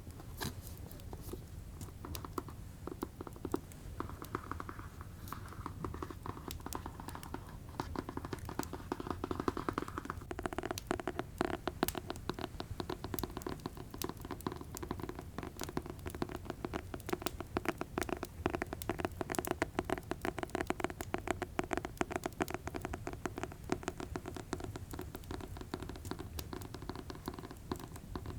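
Fingers tapping fast on an object, ASMR-style: a rapid, uneven run of light taps that grows quicker and denser from about ten seconds in.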